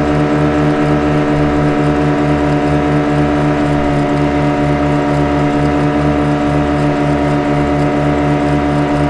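Boat engine running steadily at constant speed: a droning hum with a regular low pulse about four times a second.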